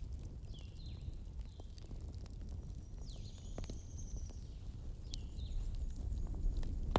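Wood campfire burning, with a steady low rumble and scattered sharp crackles and pops. Birds call in the background: several short chirps that drop in pitch early on and again near the end, and one longer high whistle in the middle.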